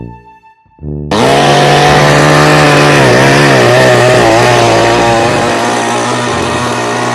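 A loud motor, like that of a chainsaw or other power tool, starts suddenly about a second in and runs steadily, its pitch dipping and wavering for a moment in the middle.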